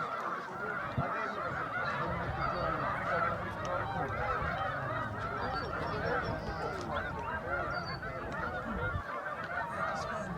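A huge flock of wild geese calling all at once: thousands of overlapping honks merging into one dense, unbroken chorus.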